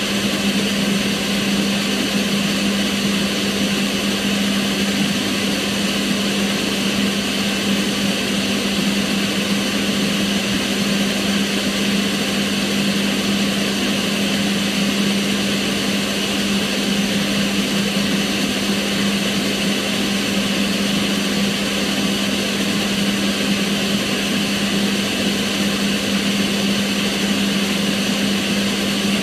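Kitchen range hood extractor fan running steadily: a constant rushing of air with a steady low hum.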